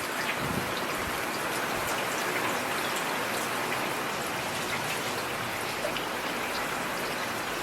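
Heavy rain falling steadily as a constant hiss, with scattered sharp drop ticks on hard surfaces.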